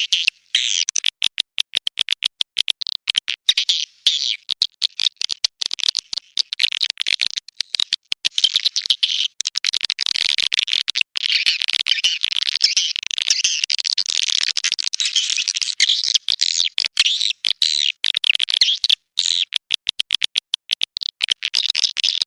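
Swiftlet calls: rapid, high-pitched twittering and clicking chirps in dense streams, broken by short gaps at first and nearly unbroken from about halfway. It is a swiftlet lure call track of the kind played to draw swiftlets to nesting houses.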